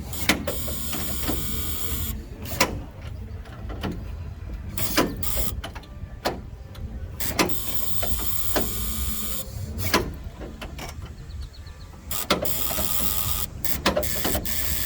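Ford Model T four-cylinder engine running at a slow, uneven idle: a steady low rumble broken by loud sharp pops about every two and a half seconds, with lighter ticks between.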